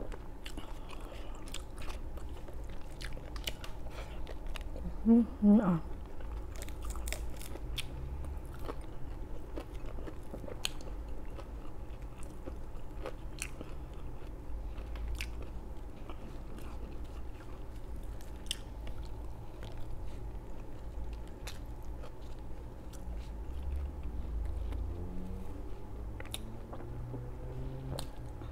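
A person chewing and crunching crispy fried food close to the microphone, with irregular crisp crunches and mouth clicks over a steady low hum. One brief hummed "mm" about five seconds in.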